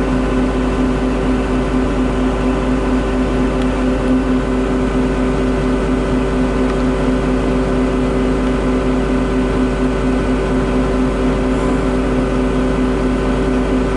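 Steady, unchanging drone of farm machinery running under harvest load, heard from inside a tractor cab, with a constant low pitched hum.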